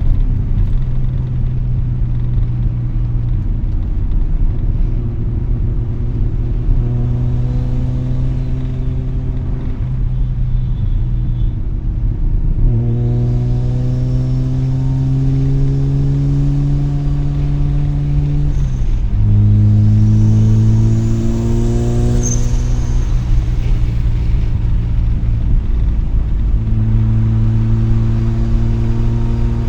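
Mazda RX-7's rotary engine and aftermarket RE Amemiya Dolphin Tail exhaust, heard from inside the cabin with the windows down. The car accelerates moderately through the gears: the engine note climbs steadily, drops at a shift about twelve seconds in and again about nineteen seconds in, then settles into a steady cruise near the end.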